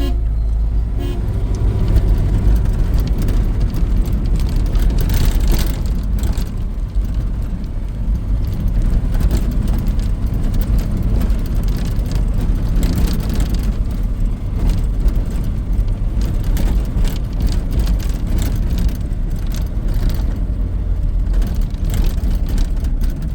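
A motor vehicle running as it is driven: a steady low engine and road rumble with scattered knocks and rattles.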